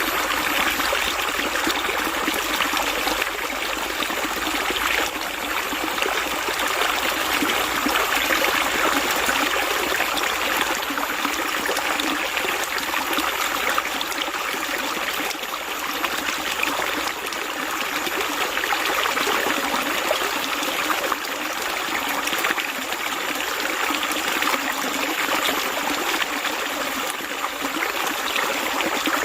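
Flowing water, a stream running and trickling steadily with a fine bubbling texture.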